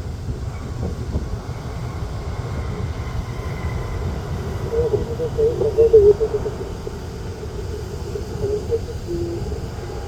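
Steady low rumble of jet aircraft engines at an airport, mixed with wind on the microphone. A brief warbling burst about five seconds in is the loudest moment.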